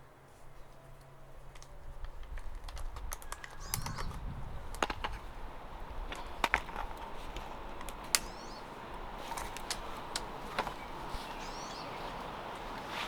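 Backyard songbirds giving short chirps now and then, over outdoor background noise, with a scatter of sharp clicks and taps, the loudest two about six and eight seconds in.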